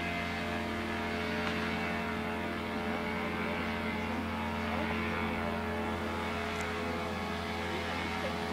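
Steady engine drone holding one pitch, with no rise or fall.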